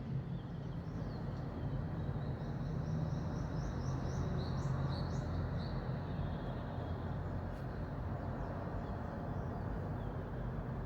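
Birdsong at dawn: a bird gives a quick run of short, repeated high chirps for a few seconds, over a steady low background rumble.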